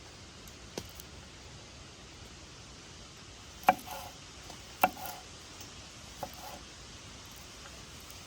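A knife chopping on a cutting board: four sharp, irregularly spaced strokes, the two loudest about a second apart near the middle, each with a short ringing tail, over a faint steady hiss.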